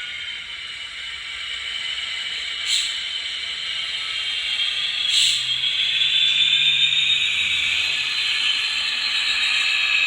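N gauge model locomotive running with its DCC sound decoder playing through a tiny speaker: a steady, thin mechanical sound that builds gradually. Two short, sharp hissing clicks come about 3 and 5 seconds in.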